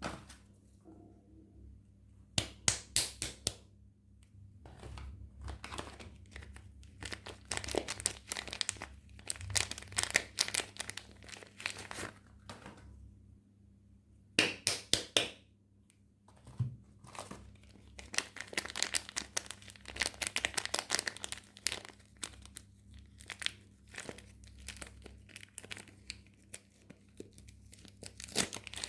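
Soap packaging being unwrapped by hand: a wrapper crinkling and tearing in repeated crackly bursts, with brief pauses between handlings.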